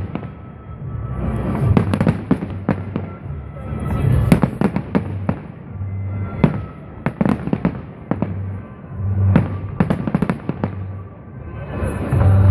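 Large fireworks display: aerial shells bursting in a rapid, irregular series of sharp bangs and crackles, with deeper booms swelling every couple of seconds.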